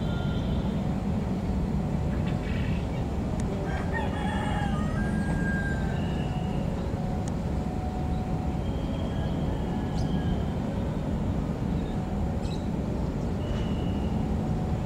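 Steady low rumble of a commuter electric train moving slowly along the station tracks, with short high chirping calls now and then.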